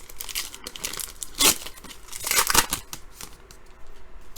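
A foil trading-card pack being torn open, the wrapper crinkling and ripping in a few short pulls, the loudest about a second and a half in and again around two and a half seconds in.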